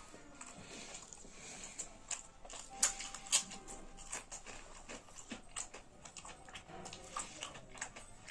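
Close-up eating sounds: chewing with scattered short clicks and smacks, two louder ones about three seconds in.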